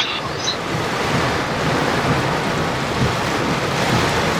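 Heavy rain pounding the vehicle and tyres hissing through water on the road, heard from inside the cabin as a steady rushing noise.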